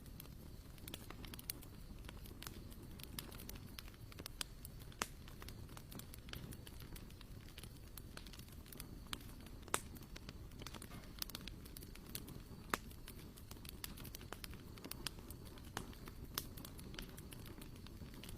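Wood campfire crackling, with irregular sharp pops and snaps over a low steady rumble of flame.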